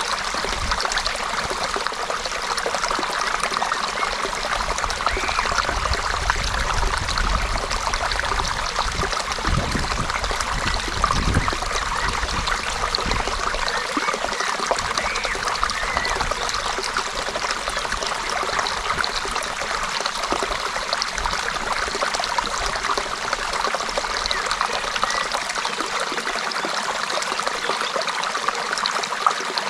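A stream flowing and trickling over rocks, a steady rushing and babbling of water. A low rumble comes and goes under it in the first half.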